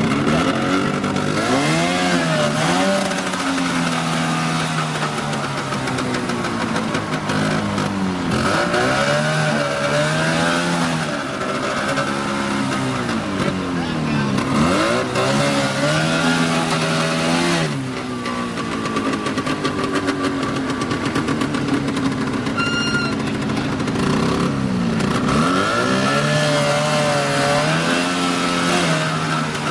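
Vehicle engine revving up and dropping back again several times, as if working under changing load. There is a brief high-pitched tone a little after the middle.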